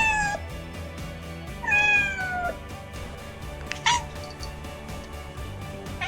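Domestic cat meowing in separate calls: one meow ending just after the start, a longer meow falling in pitch about two seconds in, and a short high mew about four seconds in.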